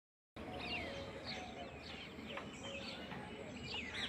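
Wild birds chirping: short, high chirps that glide downward, several a second.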